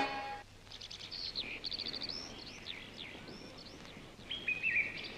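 Birds chirping and trilling: a busy run of quick high calls and short trills. An accordion note cuts off about half a second in.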